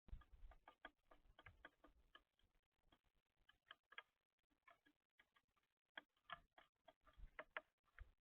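Faint, irregular ticking and tapping of birds pecking at seed and peanuts on a bird feeder, several small taps a second with brief pauses.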